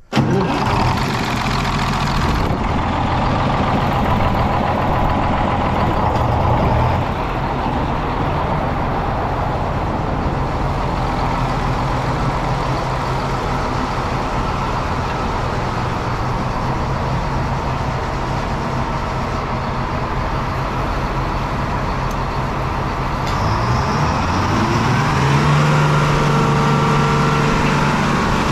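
The power unit engine of a circular sawmill is running with its dust blower. About 23 seconds in, the engine revs up and its pitch rises and holds higher to the end.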